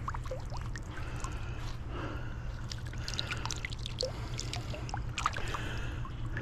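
Water trickling and dripping, with small plops and splashes scattered through.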